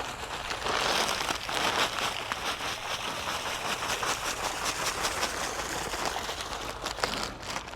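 Dense, rapid crackling and rustling of kitchen scraps being fed out to chickens: many small ticks and patters with no clear rhythm.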